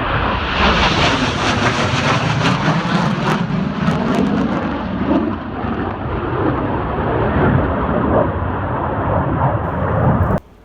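A low-flying military jet passing close by: a loud roar that swells about half a second in, with a slowly falling tone as it goes past. It cuts off suddenly near the end.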